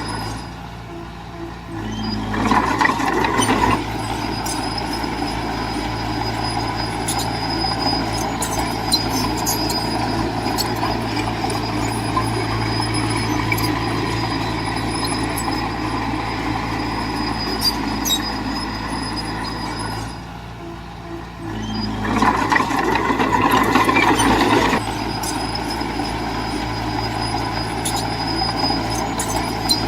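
Bulldozer's diesel engine running steadily under work, with sharp metallic clanks scattered throughout. Twice the engine drops off for a second or two, then runs louder for about two seconds before settling again.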